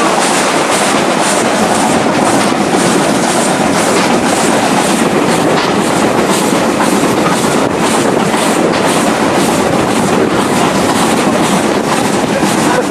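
Steam-hauled passenger train running along the line, heard from on board a carriage: a loud, steady running noise with a regular beat, about two to three a second.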